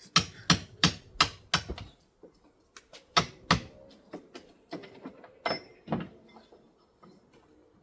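Sharp hammer blows in quick runs, about three a second, then fewer and quieter knocks: a hammer driving a chisel or crowbar to knock off tiles and lever an old wooden window frame out.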